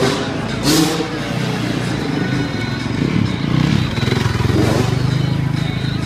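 Motocross dirt bike engines running and revving, pitch rising and falling, with background music.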